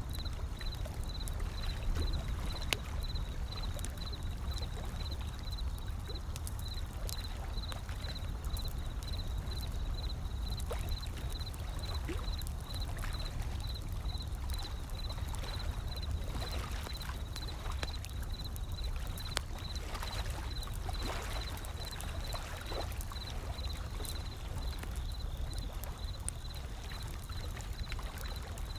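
Wood fire crackling with scattered sharp pops over the low, steady wash of gentle ocean waves. A faint, high-pitched pulsing tone repeats at an even, rapid rate throughout.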